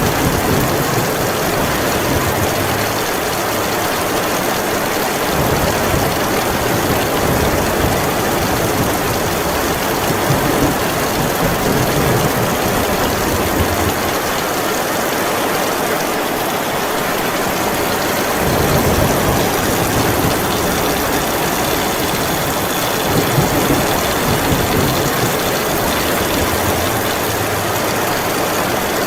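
Heavy rain falling steadily, with low rumbles of thunder swelling and fading several times, the strongest about two-thirds of the way through.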